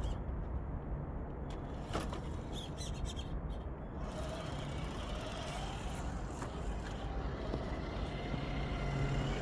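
Steady low rumble of distant highway traffic, with a few light clicks and a faint gliding whine about halfway through.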